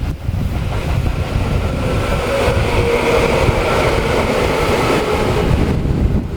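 Tobu Tojo Line electric commuter train pulling into the station: a steady heavy rumble of the train running past, with a few steady pitched tones on top from about two seconds in that fade shortly before the end.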